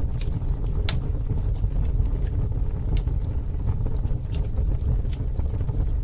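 Campfire burning: a steady low rumble of the flames with sharp crackles and pops about once a second, the strongest pop about a second in.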